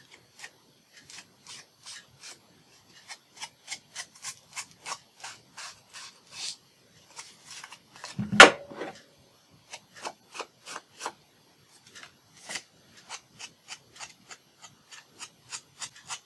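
Ink being rubbed onto the edges of paper with short, repeated swipes, about two a second, to darken the white cut edges. One sharp knock about eight seconds in is the loudest sound.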